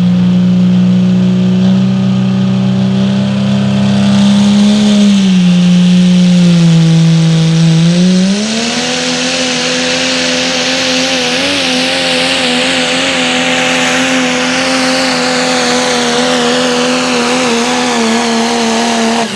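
Pro Stock Diesel four-wheel-drive pulling truck at full throttle dragging the sled down the track. The engine note sags around five seconds in, climbs again at about eight seconds and holds high with a rising hiss, then drops off right at the end.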